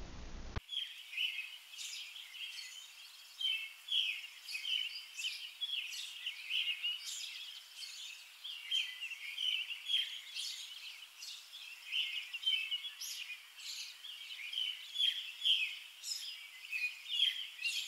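Birds chirping and twittering, a busy chorus of many short, high calls that starts about half a second in.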